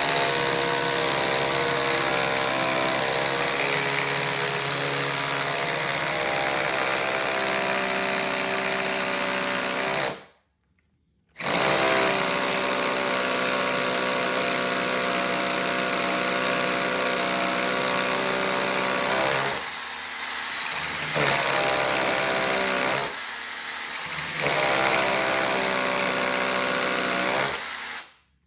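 Huepar 20V brushless SDS hammer drill with a 5/8-inch bit hammer-drilling into brick, running with a steady whine. It stops for about a second around ten seconds in, then starts again, drops in level twice later on, and stops just before the end; the bit is making slow progress through the brick.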